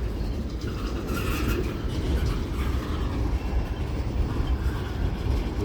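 Freight train rolling past at track side: a steady rumble of wheels on rail.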